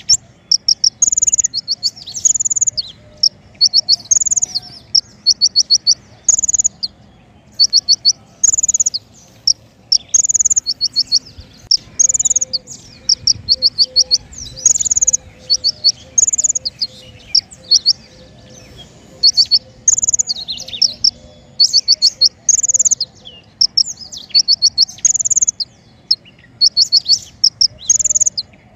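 King konin songbird singing: short, high, rapid trills repeated about once or twice a second, separated by brief pauses. This is song used as masteran and lure calls to draw birds in and get a kept bird singing.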